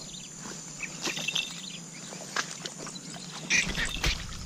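Short bird calls, a few near the middle and another cluster near the end, over rustling and crunching of tall grass underfoot.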